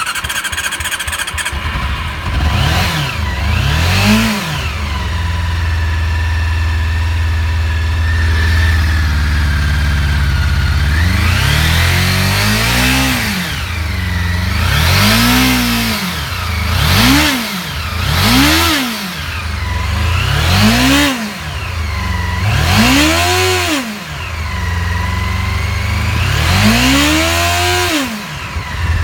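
Honda CB-1 (NC27) inline-four motorcycle engine catching and settling into a fast idle, then revved in short throttle blips, about ten rising and falling revs, most of them in a run over the second half.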